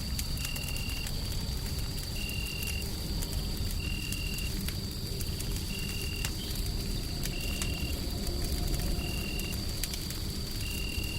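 Wood fire crackling with scattered sharp pops over a steady low rumbling noise bed. A short high chirp repeats about every second and a half, and a thin steady high tone runs underneath.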